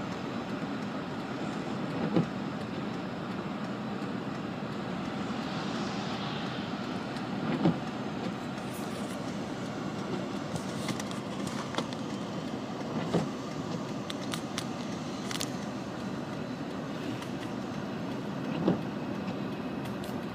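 Union Pacific diesel-electric freight locomotives passing at close range: a steady din of engines and wheels on rail. Four sharp knocks come at even intervals of about five seconds.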